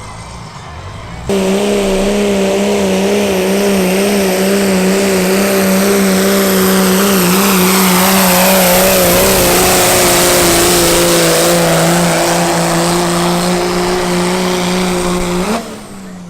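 A high-powered diesel truck engine held at full throttle, starting abruptly about a second in. It stays at a steady, high pitch for about fourteen seconds, sagging slightly partway through, then cuts off suddenly near the end.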